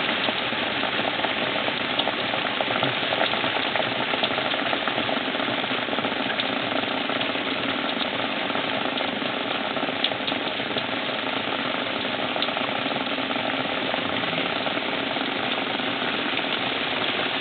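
Heavy rain pouring down in a steady downpour: a dense, even hiss of drops with a few sharper drop hits scattered through it.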